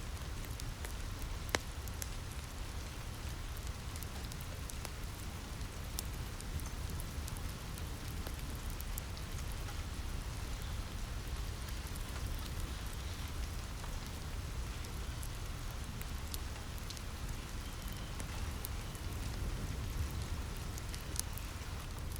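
Steady rain falling on a cabin roof, a constant hiss with a low rumble, mixed with the scattered crackles and pops of a wood fire in a fireplace; one sharper pop comes about a second and a half in, and a few more near the end.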